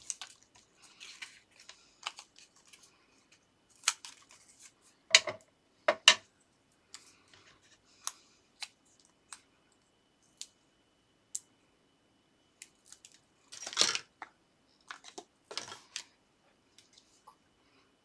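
Paper card and small craft tools being handled and set down on a desk: scattered sharp taps and clicks, with a longer rustle of paper about fourteen seconds in and a shorter one just after.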